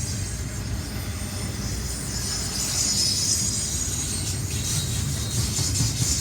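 Train rolling past: a steady low rumble of wheels on the rails, with a high hiss and faint squeal from the wheels that grows louder about two seconds in.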